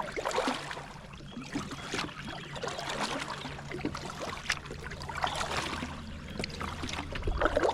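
Water splashing and trickling around a kayak on a moving river, with irregular splashes every second or so, over a faint steady low hum.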